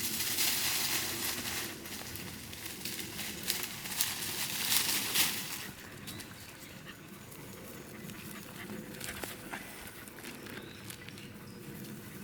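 Rustling and crackling along a wet, rain-soaked woodland path, with many small clicks, louder for about the first six seconds, then softer scattered rustles and steps.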